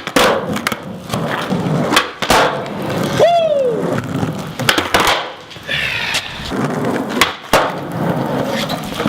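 Skateboard rolling on smooth concrete with a rough wheel rumble, broken by repeated sharp clacks of the tail popping and the board landing during flatground tricks. About three seconds in there is a short falling squeal.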